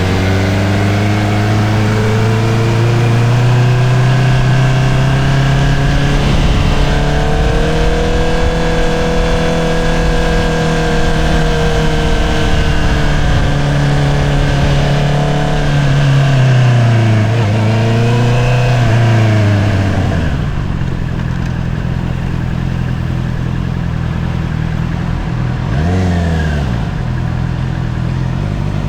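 2022 Honda CBR650R inline-four running through an Akrapovič single-outlet exhaust on the move. Its pitch climbs at first and then holds steady. The revs dip and waver about two-thirds of the way through and then settle low, with a short throttle blip near the end.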